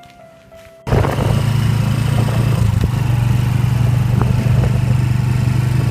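Soft music cuts off just under a second in, replaced by the loud, steady drone of a vehicle engine running at an even pitch while travelling, with a noisy rush over it.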